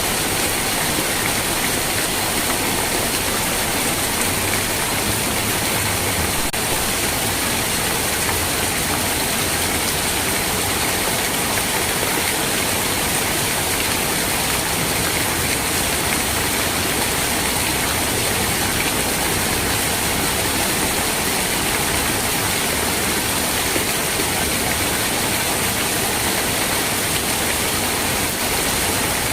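Steady rain, an even hiss that holds level throughout with no single drops or thunder standing out.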